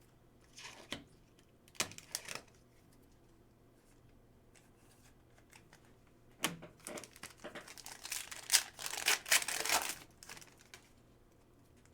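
A foil trading-card pack wrapper being crinkled and torn open, with the cards inside handled. There are a few brief rustles in the first couple of seconds, then a longer run of crinkling and tearing from about six and a half seconds to ten and a half seconds in.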